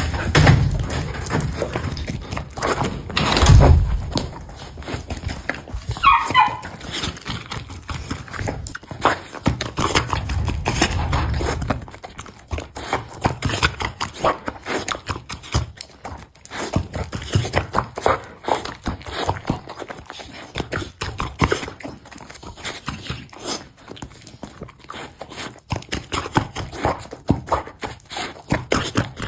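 Golden retriever chewing and eating a bun: a long run of quick, irregular smacking and chewing clicks, with a dull thump about three and a half seconds in and a brief high-pitched sound about six seconds in.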